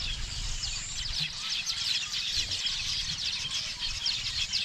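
A flock of small birds chirping continuously, many short overlapping calls at once.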